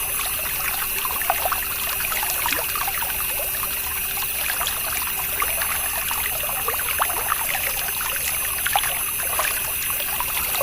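Water trickling and splashing from a miniature DIY water pump's outlet, over the steady hum of the small electric motor that drives it.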